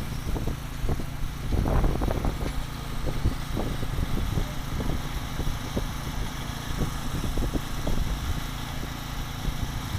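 RC racing motorcycles running on the track over a steady low rumble, with scattered light knocks.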